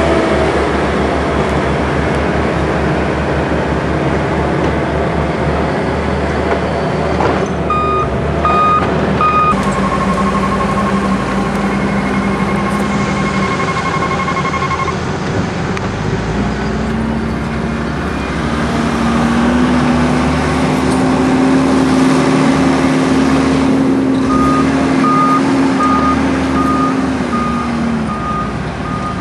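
Heavy tractor engine running under load, its pitch climbing twice about halfway through and dropping near the end, while a reversing alarm beeps in short even pulses: a few beeps about a third of the way in, then steadily through the last few seconds.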